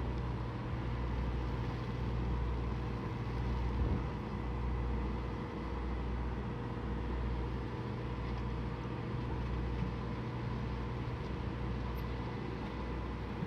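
Electric bus running with a steady electric hum: a few constant whining tones over a low rumble that swells and fades.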